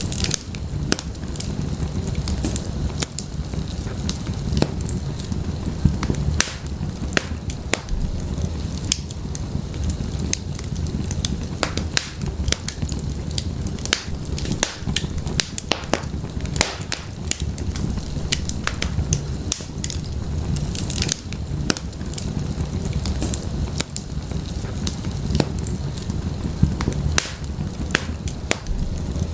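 Burning firewood crackling in an open fireplace, with irregular sharp pops and snaps over a steady low rumble of flame.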